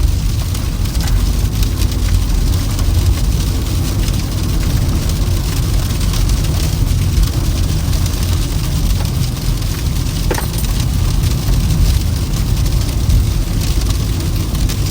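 Steady low road rumble and tyre noise of a Toyota Camry driving on a snow-covered road.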